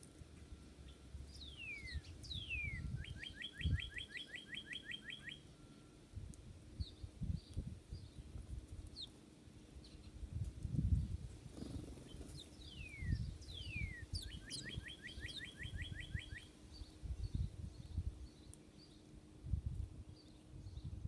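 A songbird singing a phrase of a few downslurred whistles that runs into a rapid, even trill, given twice about eleven seconds apart, with scattered short chirps from other birds between. Irregular low rumbling sits underneath.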